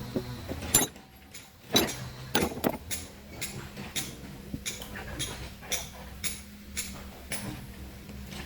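Hammer striking a steel chisel into stone in steady blows, about two a second, after a few irregular strikes near the start, over a low steady hum.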